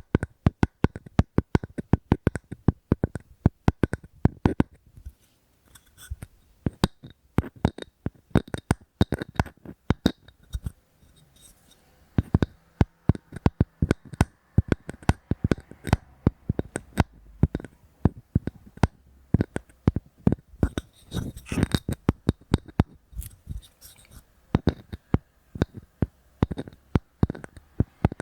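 Close-miked tapping on wood: quick runs of sharp, hollow taps, several a second, with brief pauses now and then.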